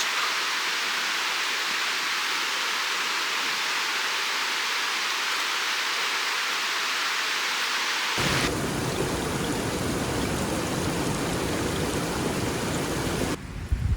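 Steady rushing water noise, high and hissing at first, then after a sudden cut about eight seconds in a fuller, deeper rush, with another change just before the end.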